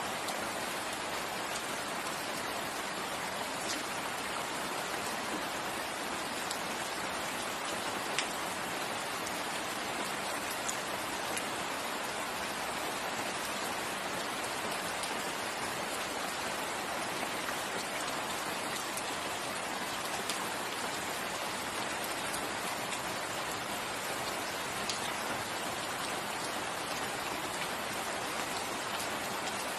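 Steady rain falling, a dense even hiss with occasional distinct drop ticks.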